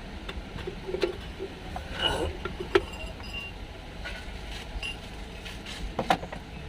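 Hand tools and bolts clinking and tapping against engine metal while a water pump is being refitted: scattered sharp metallic clicks, with the loudest about a third of the way in and a short cluster near the end.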